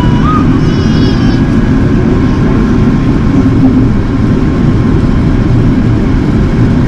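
Steady cabin noise inside an Airbus A380 in flight: a loud, even rumble of engines and airflow.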